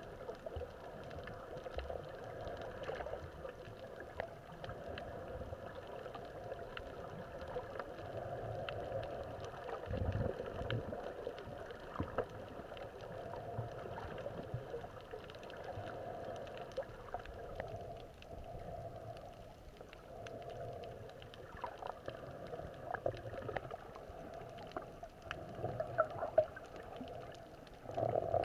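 Underwater sound: a steady hum with gurgling surges and scattered faint clicks and crackles, swelling about a third of the way in and again near the end.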